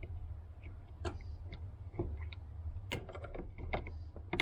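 Light clicks and taps as the plastic parts of a car fuel pump assembly are handled and worked loose, about one a second, over a steady low hum.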